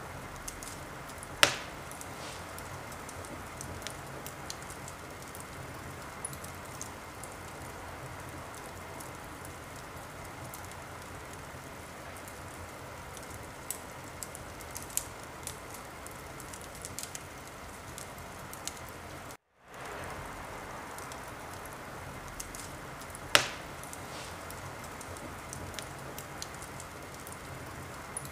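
Wood fire burning in a fireplace: a steady hiss with scattered small crackles and two loud sharp pops, one near the start and one near the end. The sound briefly drops out to silence about two-thirds of the way through.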